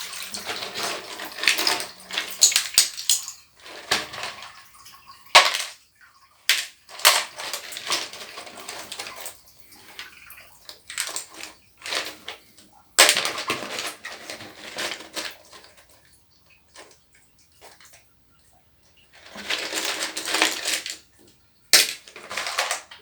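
Water splashing and sloshing as keyboard parts are washed by hand, with some clatter of plastic, in irregular bursts of a second or two with short pauses between them.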